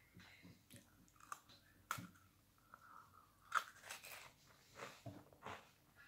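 A person chewing a crunchy cookie: faint, irregular crunches and crackles, the sharpest about two seconds and three and a half seconds in.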